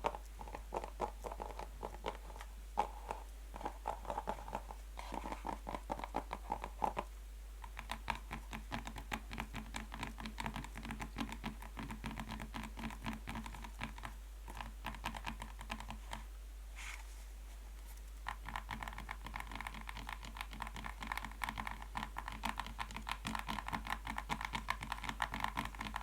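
Fast tapping of natural fingernails on a box: dense rapid clicks whose pitch changes as different parts of the box are tapped, higher and ringing in the first seconds and again over the last third, deeper through the middle.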